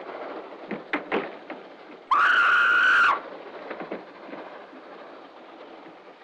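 Rumble of a moving train, with a few sharp knocks about a second in. Then a single shrill, high-pitched tone is held for about a second and cuts off.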